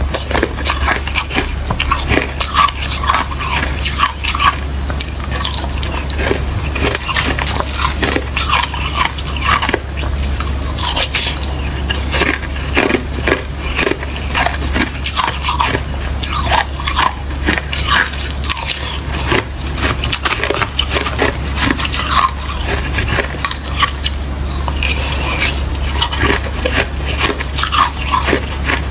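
Close-miked biting and chewing of watery, slushy ice: dense, irregular crunching and crackling with no pause.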